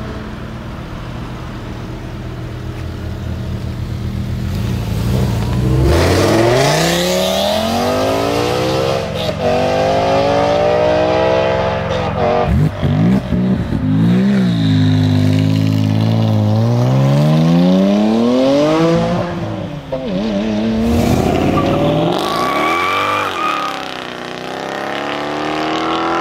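High-performance car engine running at a low, steady idle, then accelerating hard from about six seconds in. The revs climb through several gear changes, then rise and fall a few more times.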